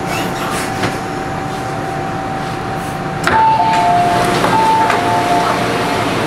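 MTR M-Train door-closing chime: a click about three seconds in, then alternating high and low beeps over the steady hum of the stopped train. Before the chime, a thin steady tone sits over the train noise.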